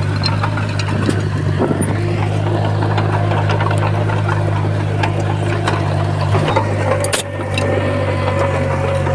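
Komatsu bulldozer's diesel engine running steadily under load, with scattered clanks and rattles and a sharp knock about seven seconds in.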